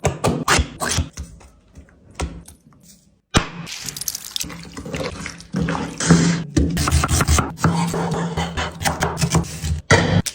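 Background music, broken by a short near-silent gap about three seconds in, then water running from a tap into a sink under the music.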